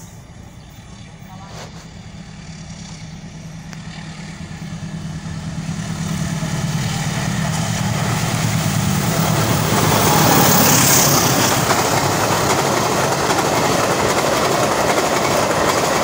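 Diesel locomotive hauling a passenger train, approaching with a steady engine drone that grows louder. About ten seconds in it passes and the steady loud rush of the coaches' wheels on the rails takes over.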